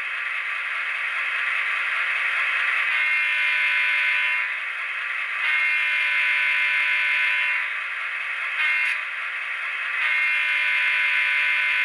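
Sound decoder in an HO-scale model locomotive, playing a Leslie RS3L air horn with added reverb through its small speaker. It gives the long, long, short, long grade-crossing signal. Under the horn runs the decoder's steady EMD 645 non-turbo prime mover sound.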